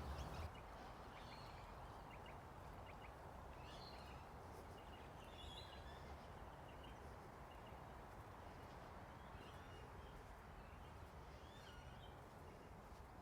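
Quiet outdoor ambience: faint, scattered bird chirps over a steady low background noise.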